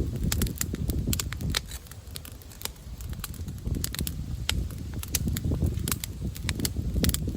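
Campfire crackling, with many irregular sharp pops, over the low rumble of wind buffeting the microphone.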